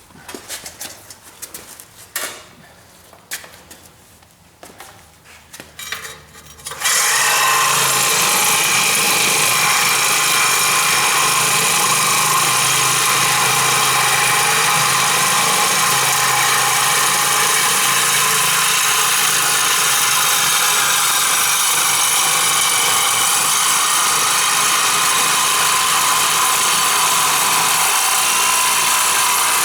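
A few scattered metal clinks and knocks from hand tools. About seven seconds in, a loud, steady machine noise starts abruptly and runs on without a break.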